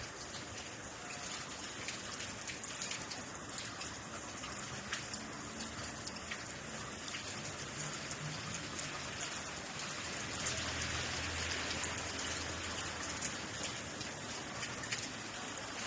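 Rain falling steadily, with many small drop impacts ticking on a surface.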